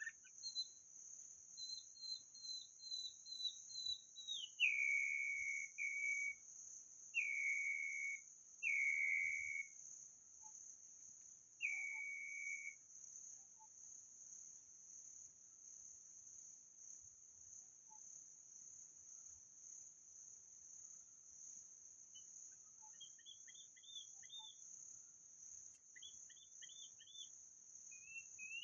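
White-rumped shama singing: a quick run of short high notes, then a note sliding down into four long, clear held whistles, and later a few quieter short phrases. A steady high insect drone runs underneath throughout.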